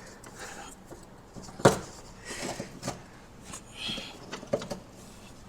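Scattered knocks, clicks and short scraping sounds of hand work on a car's parts, with one sharp knock about a second and a half in.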